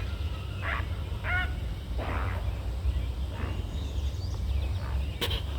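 Great blue heron giving a few short, harsh croaking calls spaced through a few seconds, the alarm it gives when disturbed by people, over a steady low rumble.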